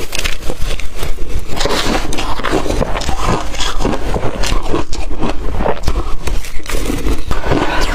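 Close-miked crunching of blender-crushed ice being bitten and chewed, a dense, continuous run of crackling crunches.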